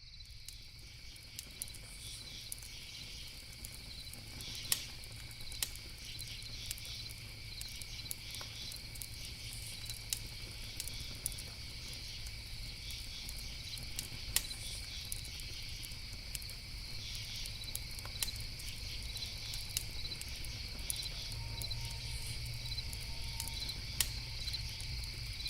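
Crickets chirring steadily at night, with scattered sharp pops and crackles of a campfire and a low steady rumble underneath.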